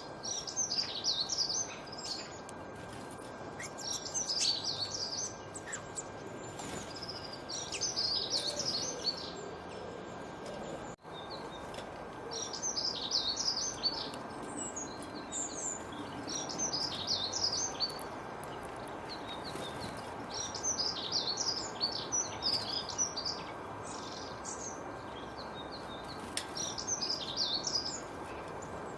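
Birds singing, short bright song phrases of about a second each repeated every few seconds, over a steady background hiss.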